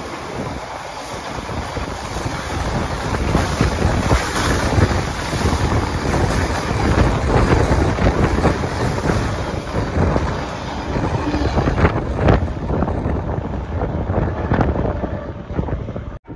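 Freight wagons loaded with lengths of rail running past at speed: a steady rush of wheels on track with wind buffeting the microphone and a few sharp wheel clicks towards the end. The sound cuts off abruptly just before the end.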